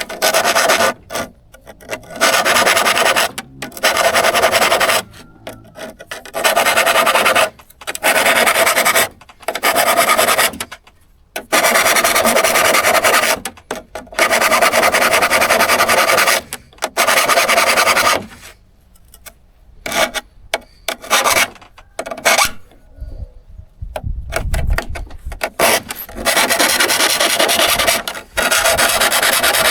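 A hand file rasping across steel saw teeth in long, irregular strokes, each a second or two long with short pauses between.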